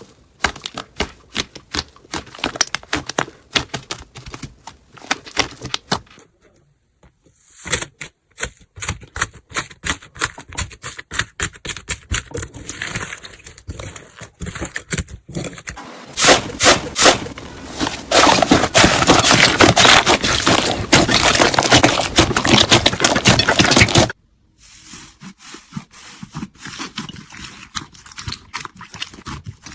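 Slime being squished and worked, giving rapid crackling and popping clicks, in a run of short clips that change abruptly several times. The crackling is densest and loudest from about sixteen to twenty-four seconds in.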